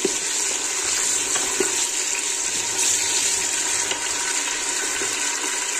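Onions, garlic and tomatoes sizzling steadily in hot oil in a pressure cooker as they are stirred with a wooden spoon, with a couple of light knocks of the spoon against the pot.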